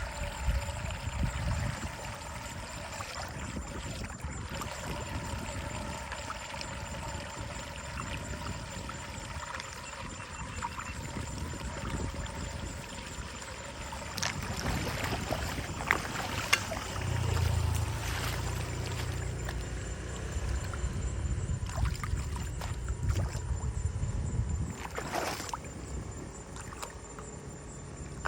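Water running and trickling through a storm drain as it is cleared, with a few sharp knocks and a low rumble in the second half.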